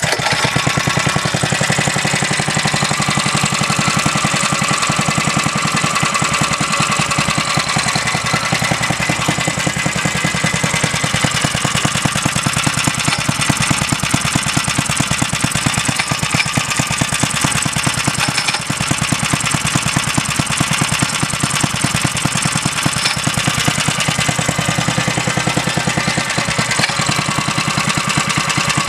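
Small vintage Villiers 1.5 hp stationary engine catching and running steadily at a fast, even beat, with a little ticking noise from the pull starter grabbing now and then.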